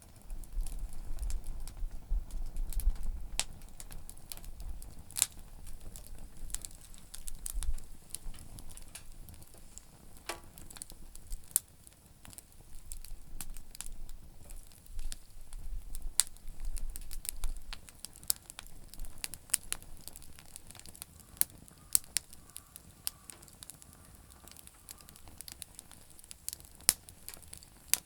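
Campfire of damp firewood burning, with sharp crackles and pops scattered irregularly throughout, over a low rumble that comes and goes in the first half.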